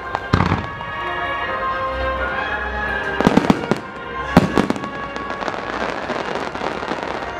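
Fireworks starmine bursting over theme music: a bang about half a second in, a quick run of bangs about three and a half seconds in, another bang soon after, then a spell of dense crackling as the aerial shells spread.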